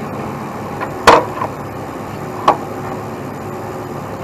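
Heavy wrecker's diesel engine running steadily during a boom lift, with a very loud sharp knock about a second in and a second knock a little over a second later, from the rigging and load as the semi tractor's front end is lifted.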